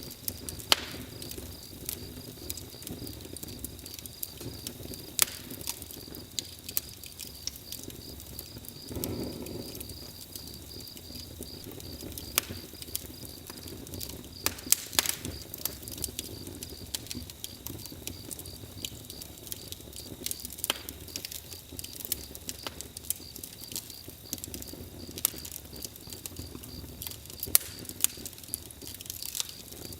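Wood fire crackling, with irregular sharp pops and snaps scattered over a steady low rush of the flames.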